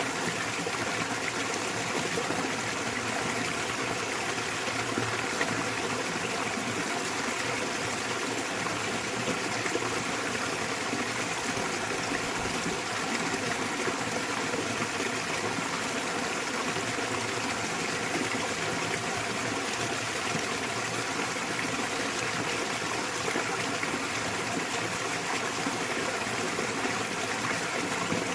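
Small waterfall splashing into a mountain stream: steady, unbroken rushing and splashing water.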